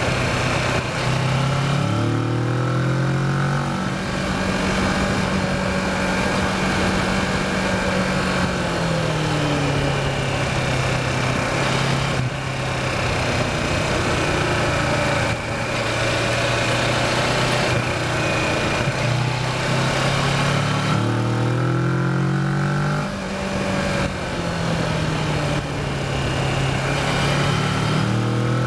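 Kawasaki Versys motorcycle engine under way on a twisty descent, its revs climbing and dropping several times between steadier stretches as it accelerates between corners and slows for them, over steady wind and road noise.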